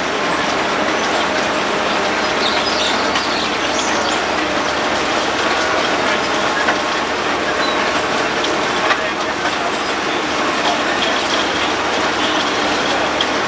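Road planer milling the asphalt surface: a steady grinding, crackling clatter from the cutting drum over the hum of the machine's engine.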